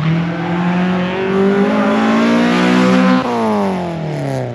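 Honda Civic rally car engine accelerating hard past the spectators: the note climbs steadily for about three seconds, then drops in pitch and fades as the car goes by.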